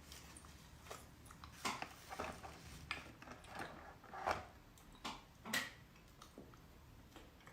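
Spoon clinking and scraping against a dish while a chocolate lava dessert is eaten: a string of sharp clicks, the loudest between about two and six seconds in.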